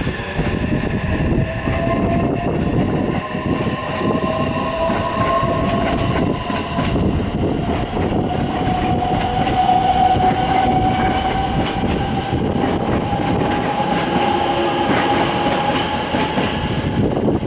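Electric commuter train running through the station, its motor whine slowly rising in pitch as it gathers speed, over a steady rumble and clatter of wheels on the rails.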